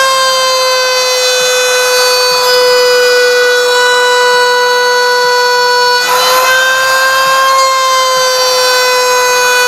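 CNC router's spindle whining steadily at high speed while it cuts, with a short burst of hiss about six seconds in.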